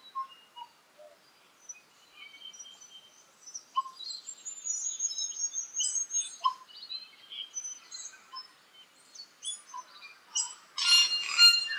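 Tui singing in the forest: a loose string of short whistled notes, clicks and higher squeaky phrases, breaking into a loud, dense burst of song near the end.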